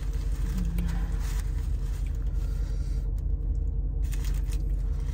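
Steady low rumble of a car's engine, heard inside the cabin.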